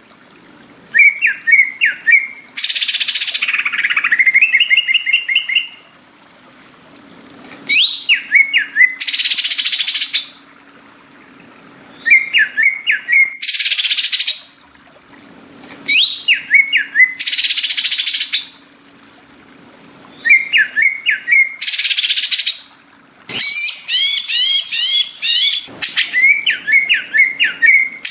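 Green leafbird (cucak ijo) singing in repeated phrases a few seconds apart: quick rising-and-falling whistled notes, each followed by about a second of harsh, hissing rasp.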